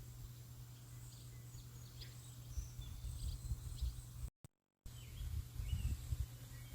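Birds chirping in short, scattered calls over an uneven low rumble. The sound cuts out completely for about half a second around four seconds in.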